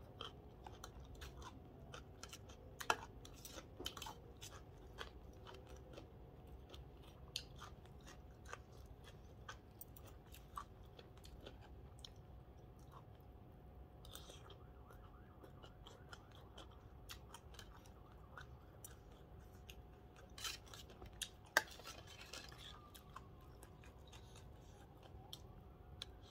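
Close-up chewing and crunching of a mouthful of Thai green papaya salad, with scattered sharp clicks and clinks from a metal spoon and fork against the metal tray, two of them louder, about 3 seconds in and near 21 seconds.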